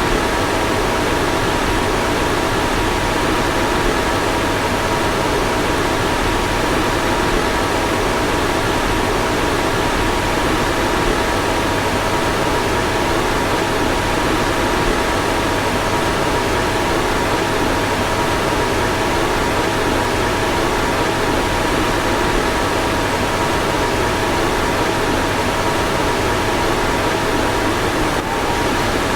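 Car fan running steadily: an even rush of air with a faint, steady two-note whine over it.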